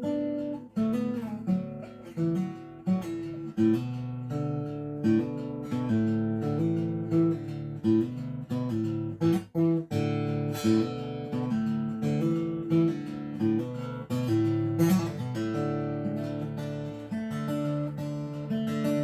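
Acoustic guitar playing an instrumental folk intro, strumming chords in a steady rhythm.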